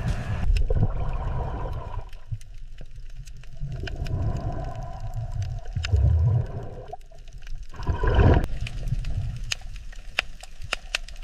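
Underwater ambience: a low rumbling wash of moving water with gurgles and scattered clicks, swelling louder about eight seconds in.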